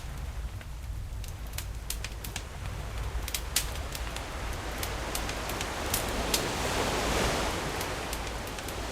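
Campfire crackling with frequent sharp pops, one louder than the rest about three and a half seconds in, over the wash of sea waves; a wave swells in past the middle and eases off near the end.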